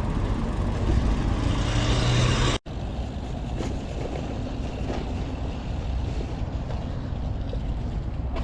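Road noise and wind rumble on the microphone while riding along a highway. A vehicle passes with a rising hum over the first two seconds. The sound cuts out abruptly about two and a half seconds in, then steady wind and road rumble carry on.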